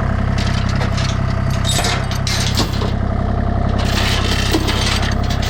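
An engine running steadily at idle, with scattered metallic clinks, knocks and scrapes over it.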